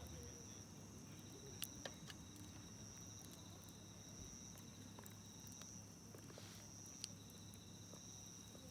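Faint, steady high trilling of insects, with a few sharp pops from a crackling wood campfire: two close together early on and one later.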